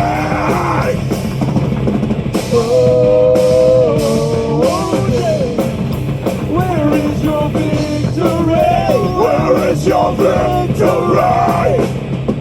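Live heavy metal band playing: distorted guitars and drum kit, with a sustained melodic line, as a vocal or lead guitar, held from about two and a half to five seconds in.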